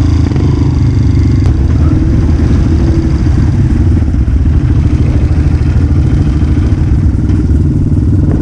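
Dirt bike engine running loud and steady close to the microphone, with some clatter.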